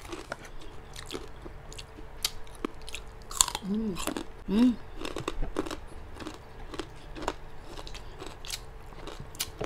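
Close-up crunching and chewing of crispy deep-fried pork rind chicharon, many sharp crunches one after another. About four seconds in come two short hums.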